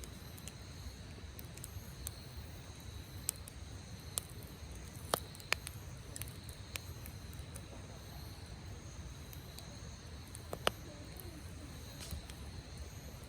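Wood campfire crackling, with scattered sharp pops; two are louder, about five seconds in and near the end. A steady high insect trill runs underneath.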